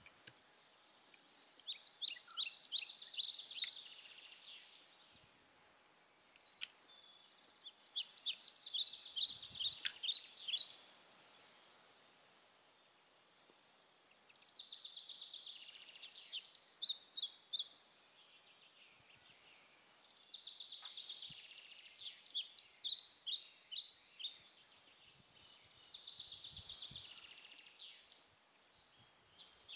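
A bird singing: phrases of rapid high chirps, each two to three seconds long, repeated about every six seconds.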